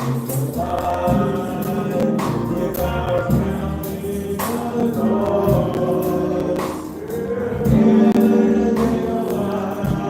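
Gospel choir singing with instrumental backing and regular percussion strikes, tambourine among them.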